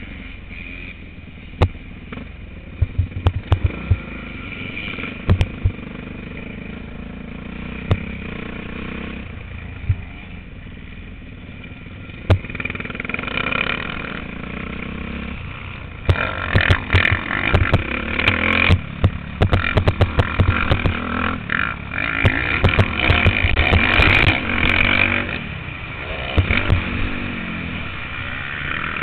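Motocross bike engine recorded by an on-board action camera. It runs fairly quietly with scattered sharp knocks at first, then from about halfway in it runs much louder, its pitch going up and down with repeated thumps.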